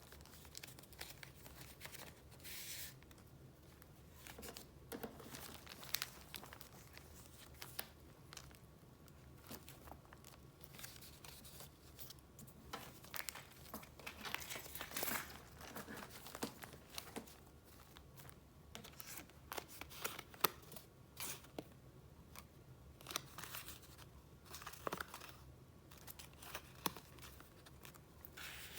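Paper being handled as the pages of a file of retro paper items are flipped through: irregular rustling and crinkling with short sharp ticks, and a longer rustle about halfway through.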